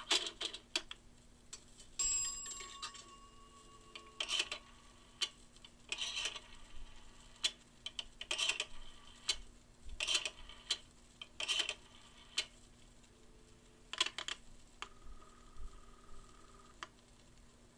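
Pay-phone sound effects: a dime dropping into the coin slot with a chime about two seconds in, then a series of sharp clicks as a number is dialled. Near the end the line's ringing tone starts, pauses briefly and starts again.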